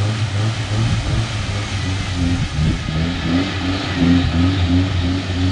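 A 4x4's engine running steadily through a rough off-road stretch, with a constant low hum and a loud broad rushing noise throughout.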